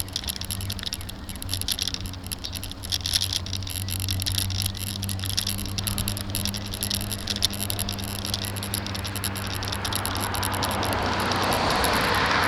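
Bicycle-mounted camera rattling and clicking as the bike rides over a bumpy road, over a steady low rumble. A rising rush of noise builds over the last few seconds.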